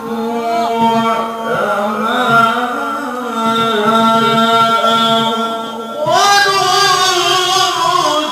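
A male qari reciting the Quran in the melodic murattal/tilawah style, holding long ornamented notes with a wavering pitch. About six seconds in, a new phrase begins with a rising glide to a higher, brighter pitch.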